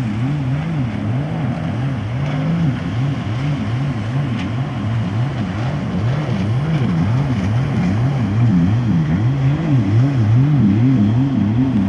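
Racing powerboat engines running hard, their pitch rising and falling over and over, growing louder toward the end.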